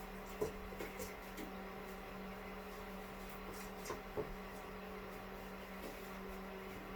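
A bird striking a window pane with its beak and body as it attacks its own reflection in the glass: a few sharp taps in the first second and a half, and two more around four seconds in, over a steady low hum.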